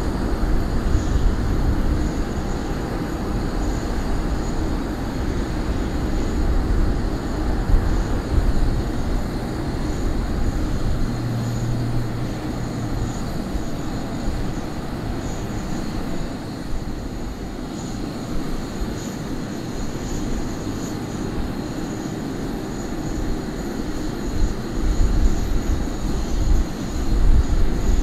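Jet engines of an Airbus A380 running at low power: a steady rumble and hiss with a faint high whine, swelling louder now and then in the low end.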